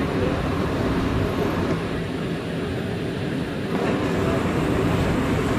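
Steady rumble inside a New York City subway car, a Bombardier R179, dipping slightly in the middle.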